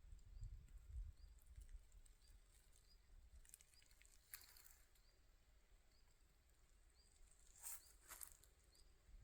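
Near silence of outdoor ambience: a faint, short high chirp repeats about once a second, with a few brief soft rustles or crunches and a faint low rumble.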